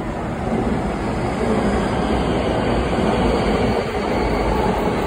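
JR West electric train pulling in alongside the platform, its wheels and running gear rumbling. The rumble grows louder about half a second in and stays loud as the cars pass, with a faint whine over it.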